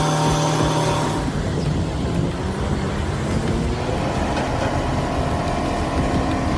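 Heavy truck engine running. About a second in the sound changes abruptly, and from the middle on the engine's pitch climbs slowly as it pulls.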